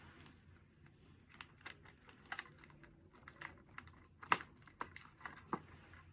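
Irregular light clicks and taps, with a little rustling, of a cup and small items being handled and fitted into a gift basket; the sharpest tap comes about four seconds in.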